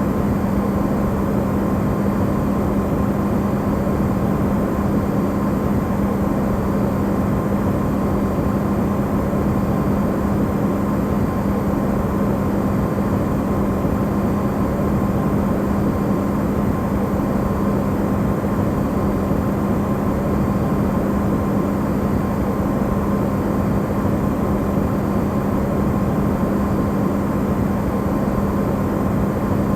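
Electrolux refrigerator running, recorded close and amplified: a steady low hum with an even rushing noise, unchanging throughout.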